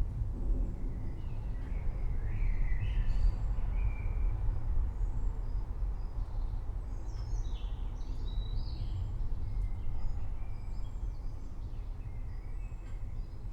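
Birds chirping and calling in short, scattered phrases over a steady low rumble.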